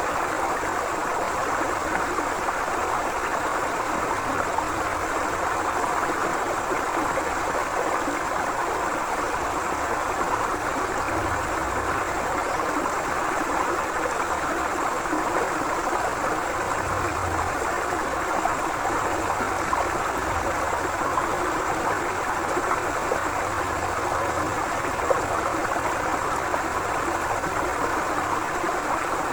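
A forest river flowing: a steady, even rush of water that stays the same throughout.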